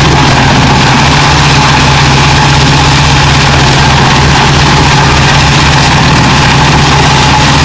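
Large engine running steadily at a constant speed, an even low hum with no change in pitch.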